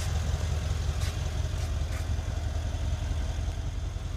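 Mercedes-AMG E63 S's twin-turbo V8 idling with a steady low hum, with a few faint clicks about one and two seconds in.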